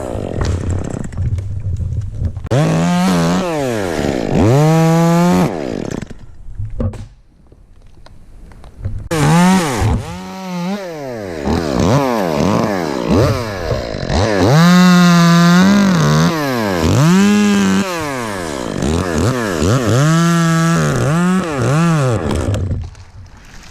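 Chainsaw revving up and down again and again, held at full throttle in stretches as it cuts ash wood, and dropping to a low idle for a few seconds about a quarter of the way in.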